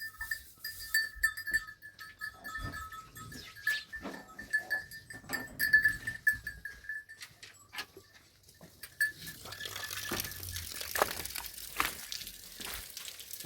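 Sheep and goats bleating, with scattered short sounds among the calls. Near the end a steady hiss takes over.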